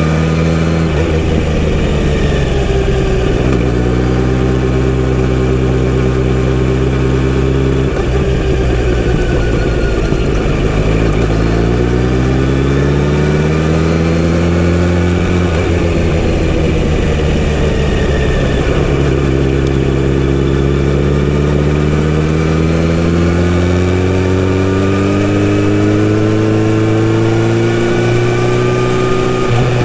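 Kawasaki Z900RS inline-four engine with a full-system sports exhaust, heard while riding. The engine holds a steady pitch, drops about eight seconds in, then climbs. It settles lower, climbs slowly again as the bike accelerates, and drops once more near the end.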